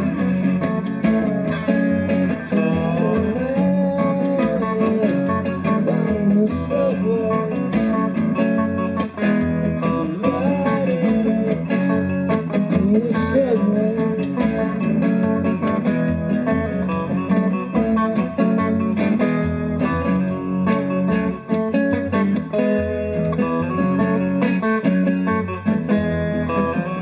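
Live guitar music in an instrumental break of a rock song: a lead guitar line with bending notes over steadily strummed chords.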